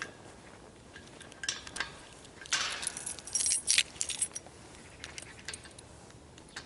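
A bunch of keys jangling and clinking in the hand, in several short bursts, the loudest a bit past halfway.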